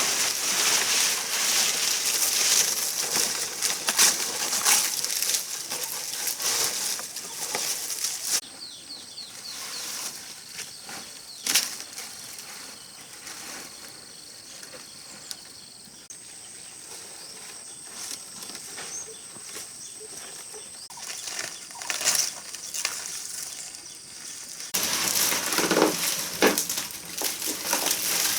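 Rustling, crackling handling noise with many small clicks, louder in some stretches and quieter in others, changing abruptly several times.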